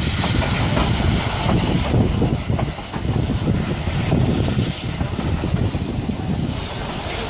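Narrow-gauge passenger train rolling along the rails: a loud, continuous rumble and rattle from the cars, with an even rushing hiss over it.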